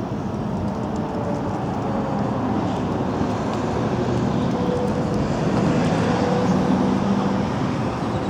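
2004 Harley-Davidson CVO Softail Deuce's fuel-injected 95-cubic-inch Screaming Eagle V-twin running steadily through a 2-into-1 exhaust, a little louder for a couple of seconds past the middle.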